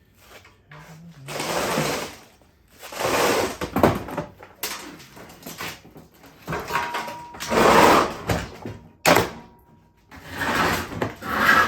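Sheet-metal and parts of a stripped front-load washing machine being moved and handled: a series of several scraping, clattering bursts with pauses between them.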